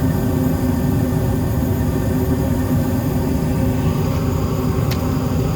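Gas furnace running in heating mode: a steady low rumble and hum from its burners and blower. There is a light click about five seconds in.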